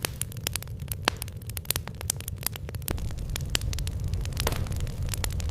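Wood fire burning in a stove firebox, crackling with many irregular sharp pops over a low steady rumble; a hiss builds near the end.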